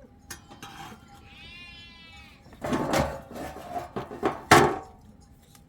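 Livestock bleating: a thin, wavering bleat a little over a second in, then two louder bleats about three and four and a half seconds in, the last the loudest.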